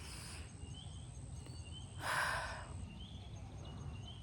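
Outdoor natural ambience: faint, short high chirps from small animals repeat every second or so over a steady low rumble, with a brief louder breathy hiss about two seconds in.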